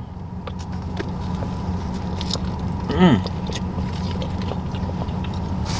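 People biting into and chewing tacos close to the microphone, with small scattered clicks and mouth sounds over a steady low hum inside a car's cabin. A brief falling "mm" from one of them comes about three seconds in.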